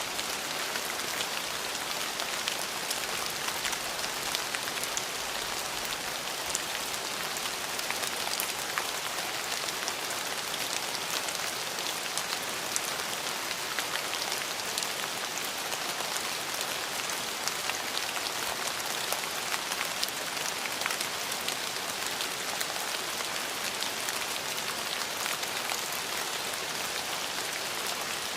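Steady rain falling on a surface, an even hiss with many small drop patters throughout.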